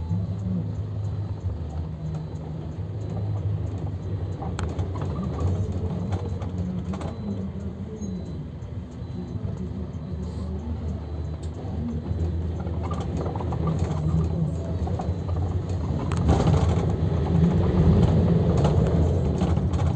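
Luidor 2250DS minibus, a Mercedes Sprinter-based diesel, driving, heard inside the cabin: a steady engine drone with road and rattle noise. It grows louder from about halfway through and is loudest near the end as the bus picks up speed.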